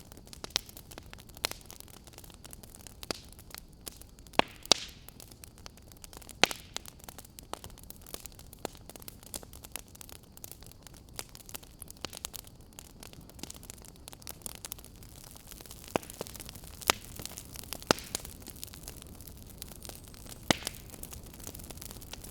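Wood fire crackling in a fireplace: irregular sharp pops and snaps over a steady low hiss and rumble of the flames.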